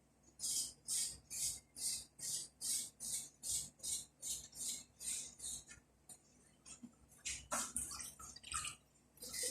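Fava beans and carrots being stirred in a frying pan, a spatula stroke about two or three times a second, each stroke bringing a short burst of hiss. Near the end the strokes turn uneven, with a few sharper scrapes.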